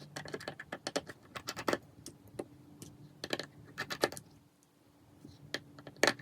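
Irregular small clicks and taps of hand tools and tiny parts being handled while an iPhone 5s is taken apart, coming in quick clusters with a short pause a little past halfway.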